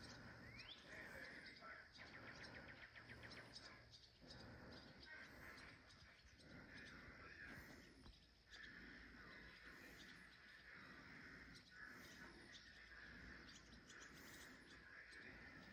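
Faint bird chirps and calls, including a short rising call near the start and a rapid trill about two seconds in.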